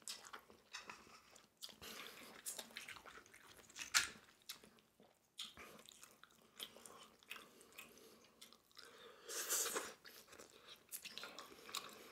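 Close-miked chewing of steamed clams: soft wet mouth sounds with scattered small clicks, a sharper click about four seconds in, and a short louder stretch of noise near ten seconds.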